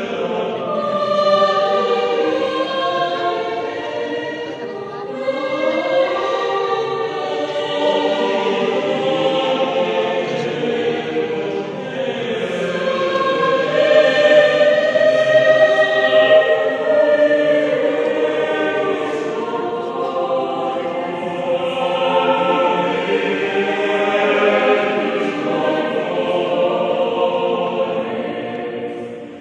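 Mixed adult choir of men's and women's voices singing a sacred choral piece in parts, with sustained chords that swell and ease.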